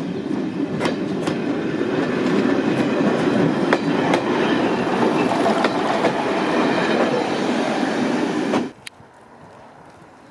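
Train running on track: a steady rumble with irregular clicks of wheels over rail joints. It cuts off suddenly near the end, leaving only a faint background.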